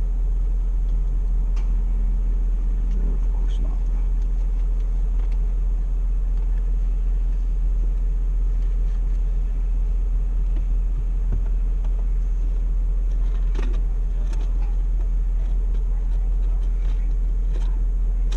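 Car engine idling, a steady low rumble heard from inside the cabin, with a few faint clicks and rustles.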